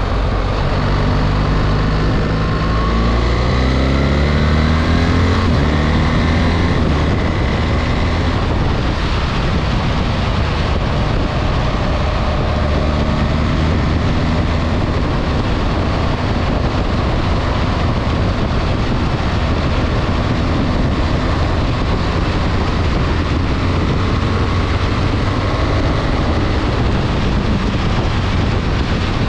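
BMW R 1300 GS boxer-twin engine under way, rising in pitch as it accelerates over the first several seconds, then running steadily at speed under constant wind and road noise.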